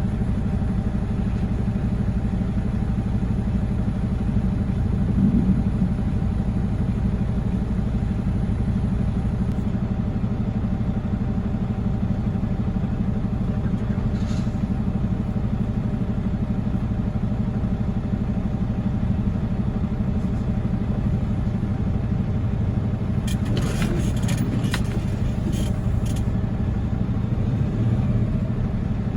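Heavy diesel truck engine running steadily with an even low drone. A few short clicks or rattles come near the end.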